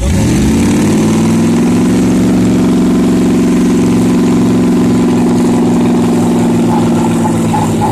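A vehicle engine revs up fast and is held at high revs under heavy load for several seconds, pulling hard at a tow rope in a tug of war. The revs drop away at the very end.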